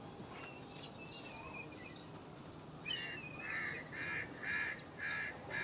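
A bird calling: one falling call about three seconds in, then short calls repeated at about two a second, over faint background noise.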